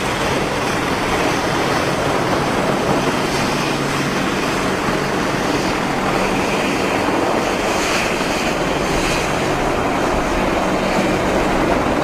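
Helicopter engine and rotor noise: a steady, dense rush with a low hum underneath.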